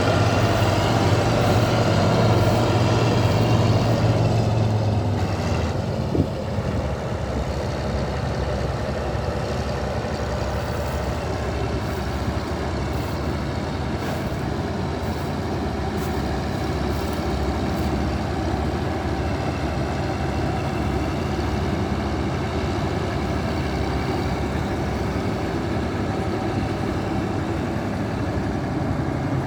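Bizon Z056 combine harvester's diesel engine running. It is louder, with a strong low steady note, for the first five seconds or so, then settles to a lower, steady running sound. A single sharp click comes about six seconds in.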